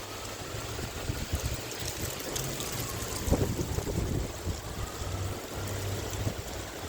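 Wind buffeting the microphone in strong gusts over the steady rush of a river, with a sharp knock about three seconds in.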